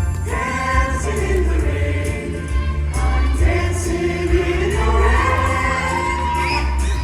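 Voices singing a melody over an instrumental accompaniment, with long held notes and sliding pitch over a steady bass.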